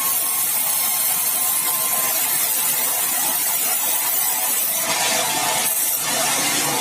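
Sawmill saw cutting through meranti batu timber: a steady hissing cutting noise that shifts briefly about five seconds in.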